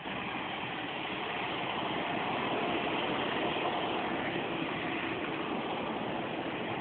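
Jet engines of a Boeing 737-800 (CFM56-7B turbofans) running, a steady rush of noise that swells slightly a few seconds in.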